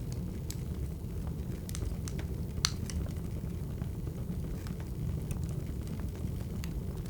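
Wood fire crackling: a steady low rumble with scattered sharp crackles and one louder pop a little before the middle.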